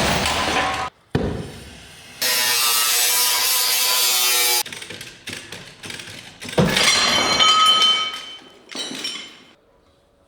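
A string of separate workshop tool sounds: a short noisy burst and a sharp knock, then a power tool running steadily for about two seconds, small knocks, and another pitched, ringing tool burst.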